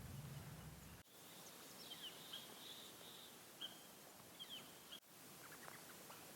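Faint bird chirps, a run of short quick calls starting about a second in, over quiet outdoor ambience. A low hum in the first second cuts off suddenly, and a few faint ticks follow near the end.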